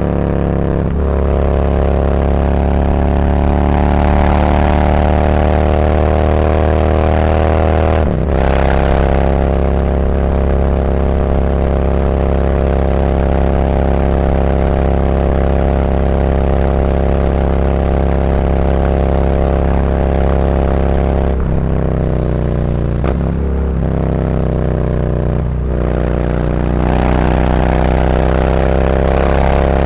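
Harley-Davidson Road Glide V-twin running through SuperTrapp 4-inch slip-on mufflers with internal discs, on the move at a steady engine speed. The engine note dips sharply about a third of the way in, falls in several steps later on, then rises again near the end.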